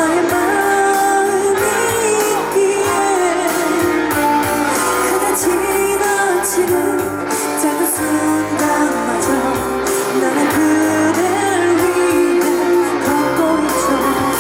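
Female pop vocalist singing live over amplified backing music with guitar, drawing out long notes that bend and glide in pitch.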